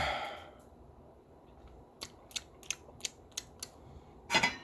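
A quick run of about eight to ten sharp clicks over a second and a half, then a louder noisy burst near the end.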